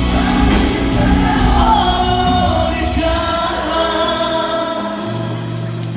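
Live band music with singing, heard through the recording at a concert, on held chords that get gradually quieter.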